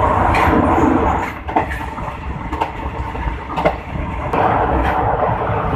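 Rear carriage of a running train, its wheels rumbling and rattling on the rails, with sharp clicks about once a second as the wheels cross rail joints. The rumble is louder for about the first second, while the carriage is on a steel girder bridge, then drops.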